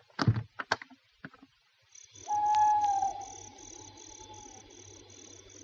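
A few sharp clicks and knocks, car doors opening and shutting, then a night ambience of crickets chirping steadily, about three chirps a second, over a low hum. A held whistling tone sounds for about a second as the crickets come in, then fades.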